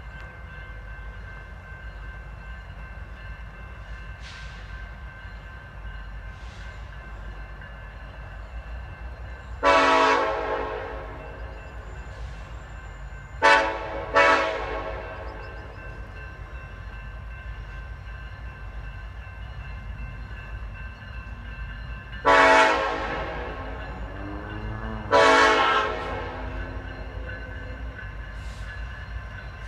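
Freight diesel locomotive air horn sounding a series of blasts over a steady low rumble: a few faint, distant blasts and five loud ones, the loud ones in two groups roughly eight seconds apart, each starting sharply and fading away.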